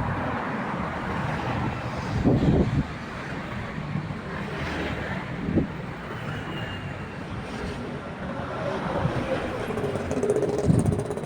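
Steady engine and traffic noise, with a few brief louder swells.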